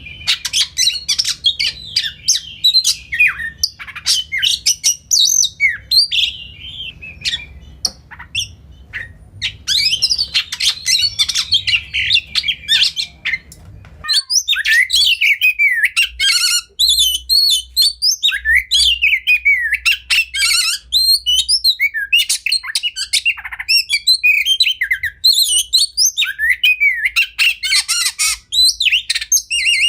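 Oriental magpie-robin (kacer) singing a long, rapid, varied song of whistled notes, trills, glides and harsher chattering calls. About halfway through there is a cut to another recording, and the low background hum drops out.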